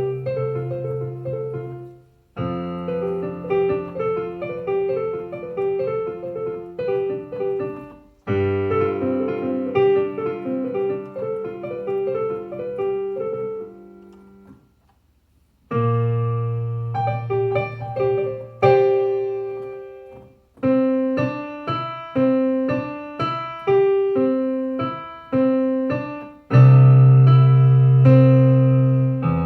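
Piano-voiced keyboard playing: repeated chords over held bass notes, in phrases broken by short pauses about two seconds in, around eight seconds, for about a second near the middle, and around twenty seconds. The bass gets louder near the end.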